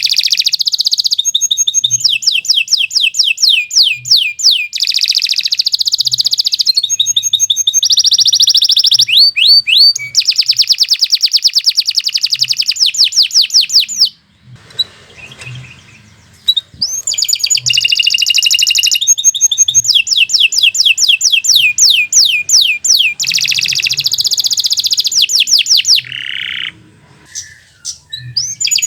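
Domestic canary singing a long, loud song of fast rolling trills and rapidly repeated high notes. It breaks off briefly about halfway through and again near the end.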